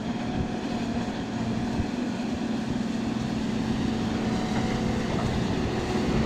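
Bulldozer engine sound running steadily and evenly, with a faint wavering whine above a low hum.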